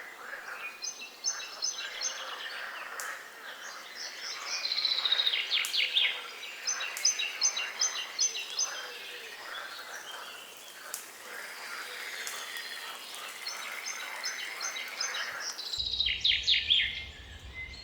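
Several songbirds singing in woodland. Short trilled phrases repeat every few seconds, and a quick run of notes falls in pitch about five seconds in.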